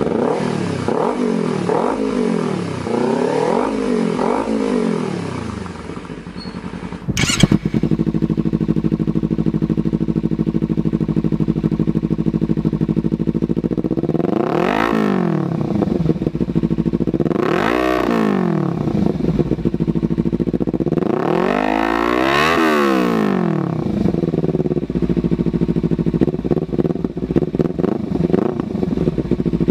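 Kawasaki Ninja parallel-twin engine through an aftermarket exhaust, blipped in several quick revs that rise and fall. After a cut it idles steadily, with three revs spaced a few seconds apart.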